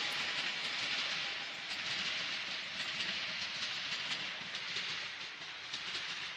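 Electric multiple unit train rolling along the track: a steady hiss of steel wheels on rail with light clicking from the rail joints, slowly fading.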